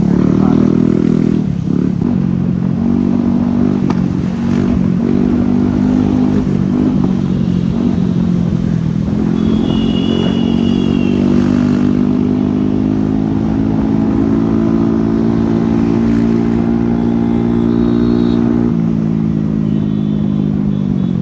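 Motorcycle engine running as it is ridden along the road, its pitch wavering up and down with the throttle. A brief high two-note tone sounds about halfway through.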